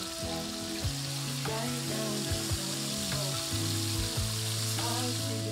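Salmon fillets frying in olive oil in a non-stick pan: a steady sizzle.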